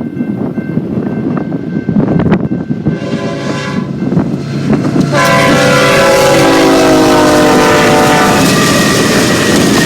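Diesel freight locomotive's air horn sounding as the train passes: a short blast about three seconds in, then a long blast from about five seconds that drops slightly in pitch, over the loud rumble of the passing train.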